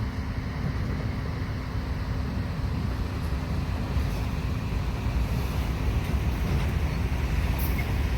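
Steady low engine rumble with a constant hum, under a haze of wind noise on the microphone.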